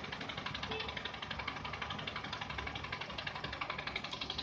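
Toyota Camry 40 (manual gearbox) idling with a fast, even knocking rattle. The knock comes with the air-conditioning fans running at low engine speed and stops when the revs rise or the clutch pedal is pressed.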